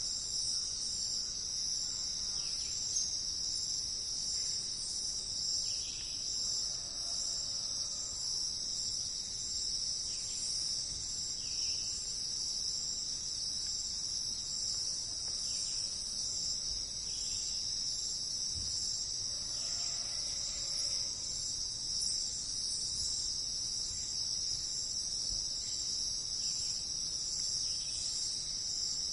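Steady, unbroken high-pitched insect chorus, with a few faint short calls lower down now and then.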